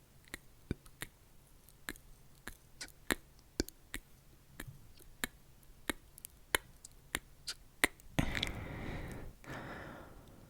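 ASMR trigger sounds made right at the microphone: quick, sharp clicks or taps at an irregular pace of about two or three a second. Near the end come two rushing, hiss-like noises of about a second each, the first the loudest thing in the stretch.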